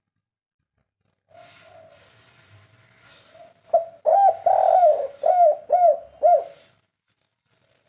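Spotted dove of the three-note 'kuk 3' type cooing. About a second in it gives a faint drawn-out note. Then comes a run of about six loud, short coos, each rising and falling in pitch.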